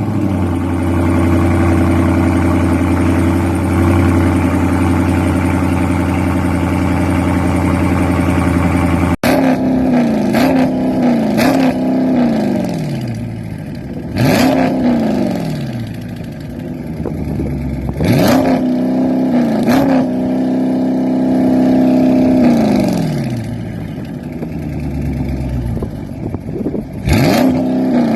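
Dodge Charger Scat Pack's 6.4-litre HEMI V8 revved while parked, heard through its exhaust. For about nine seconds it holds a steady note. After a sudden cut it gives a series of quick throttle blips, each rising sharply and falling back toward idle.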